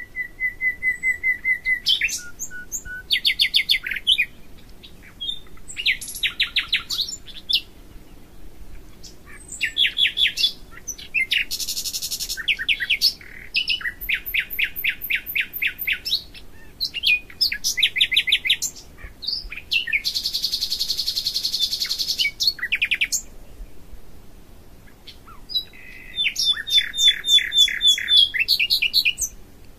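Songbirds singing in short separate phrases of quick trills and repeated high notes, with gaps between them. Two steady buzzing sounds come in, one about a second long near the middle and one of about three seconds later on.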